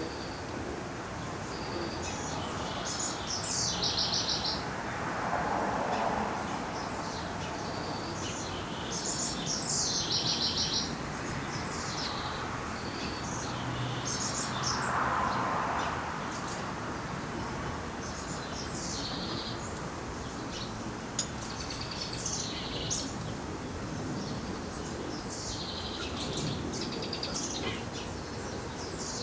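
Songbird singing short repeated phrases, some ending in a rapid trill, one every few seconds.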